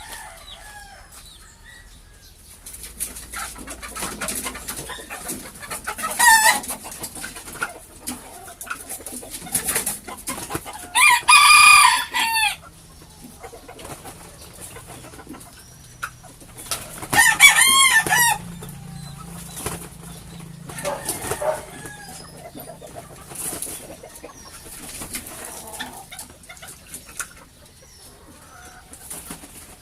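Bantam chickens clucking, with a bantam rooster crowing loudly twice, about 11 and 17 seconds in, and a shorter call near 6 seconds.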